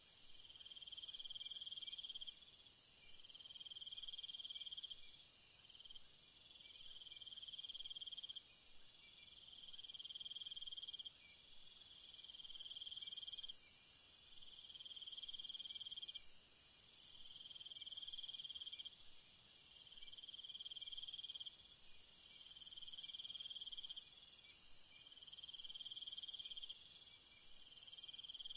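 Night insects calling: one insect chirps in repeated trills about a second and a half long, over a high, steady buzz of other insects. The buzz drops out for a few seconds now and then.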